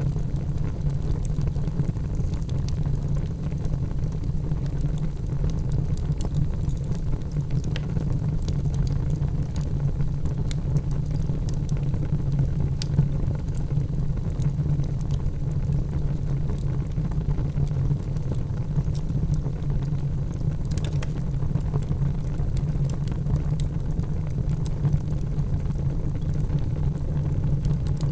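Crackling wood fire in a fireplace: a steady low rumble of the flames with scattered small pops and crackles, one slightly louder crackle about three quarters of the way through.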